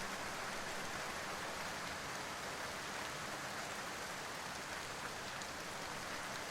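Steady rain falling: an even, unbroken hiss of rain on surfaces.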